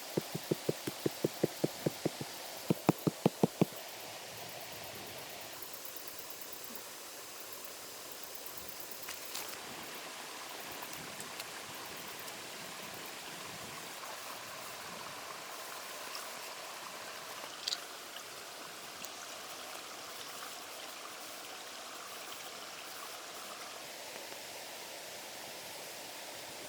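A fast run of sharp knocks, about ten in two seconds, then after a short pause five more, over a steady rushing noise like running water that continues alone afterwards.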